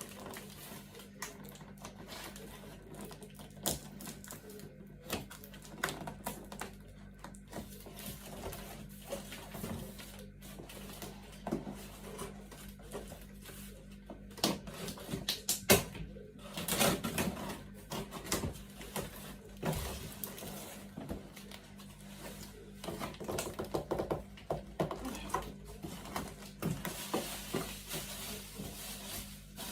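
Hands unpacking a parcel: irregular clicks, taps and rustles of packaging and objects being handled, busiest about halfway through and again near the end, over a steady low hum.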